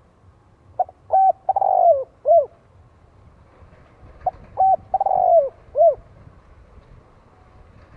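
Spotted dove cooing, two song phrases about three and a half seconds apart. Each phrase is a couple of short coos, a longer falling coo, and a final short coo.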